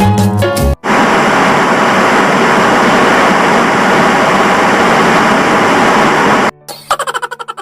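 Loud, steady rushing noise with no distinct pitch, starting after a brief burst of music and cutting off abruptly about six and a half seconds in, followed by a quick run of fading clicks.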